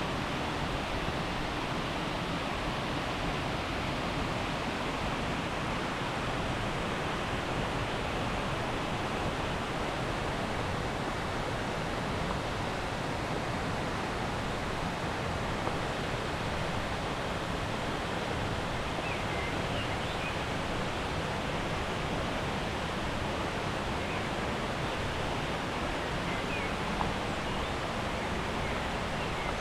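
Steady rushing of running water, an even, unbroken noise. A few faint, short high chirps sound over it in the second half.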